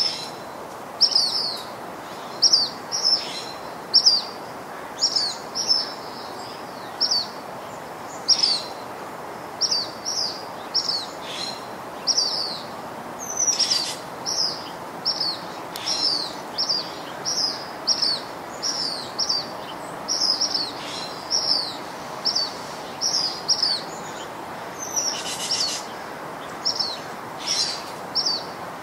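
A bird repeating short, high chirps, singly or in quick twos and threes about every second, over a steady background hiss.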